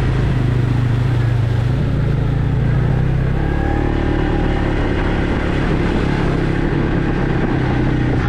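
Off-road vehicle engine running steadily while riding a forest trail, its pitch shifting slightly about three seconds in.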